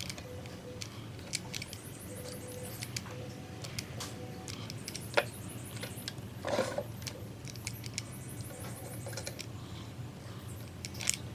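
Light clicks and taps of small hard objects being handled, with one sharp click about five seconds in and a short scrape about a second later, over a steady low hum.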